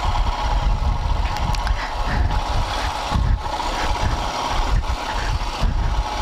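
Royal Enfield Himalayan's single-cylinder engine running while the motorcycle rides over a slushy, broken road, with tyres working through wet mud and a few short knocks from the rough surface. Heavy wind rumble on the microphone.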